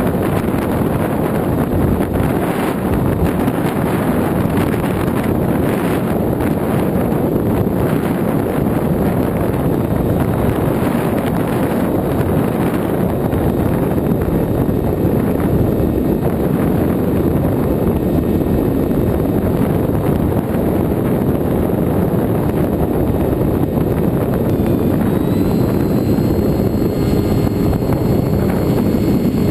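Steady rush of wind over the onboard camera's microphone on a flying FX-61 flying-wing model plane, with its electric pusher motor and propeller running underneath. A faint high whine comes in near the end.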